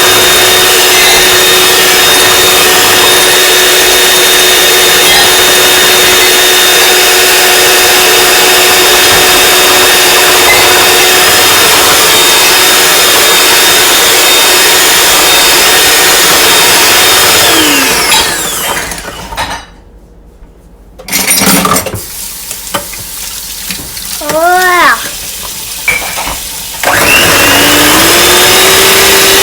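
Electric mixer whirring steadily while beating a macaron mixture. About 18 seconds in it winds down and stops; it gives a short whirr near 25 seconds, then speeds back up and runs steadily again near the end.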